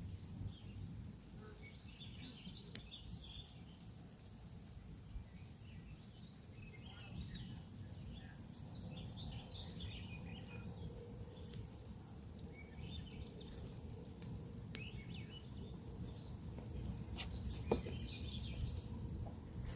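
Campfire burning with a low steady rumble and scattered sharp crackles and pops, one louder pop near the end. Small birds chirp in short bursts throughout.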